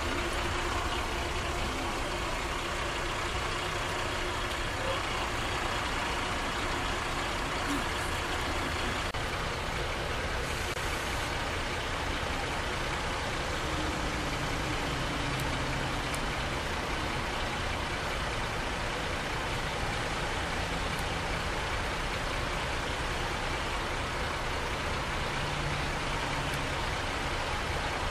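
A large vehicle's engine idling steadily: a continuous drone with no sharp events.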